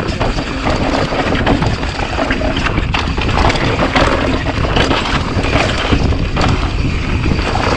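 Mountain bike riding fast down a rough dirt and rock trail: tyres grinding over the ground, with frequent sharp knocks and rattles from the bike over rocks, and wind buffeting the microphone throughout.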